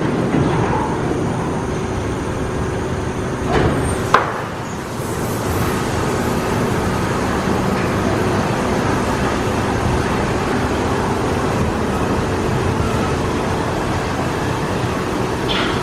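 Mark VII Softwash XT automatic car wash running over a car: a steady rush of water spray and machinery, with one sharp knock about four seconds in.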